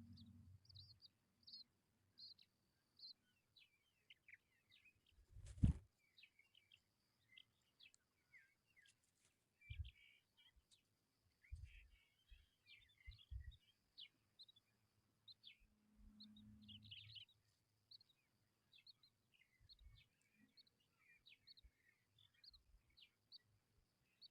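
Tawny pipit nestlings begging with many faint, short, high chirps, the sound of hungry chicks calling for food. A single thump sounds about six seconds in, with a few softer low bumps later.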